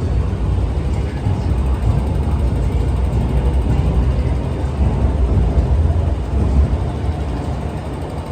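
MTR Q-train electric multiple unit running, a loud, steady, low rumble that eases slightly near the end.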